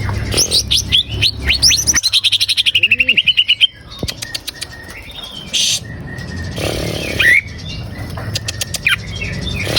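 Greater green leafbird (cucak ijo) singing: a run of quick falling whistles, then a fast rattling trill for about two seconds. Scattered shorter calls follow, with two brief rushing noise bursts in the second half.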